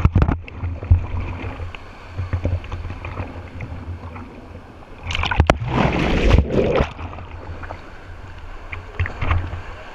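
Water rushing at a waterfall rock slide, with wind or handling rumbling on the microphone, a few knocks early on, and a loud rush of splashing water about five seconds in that lasts about two seconds.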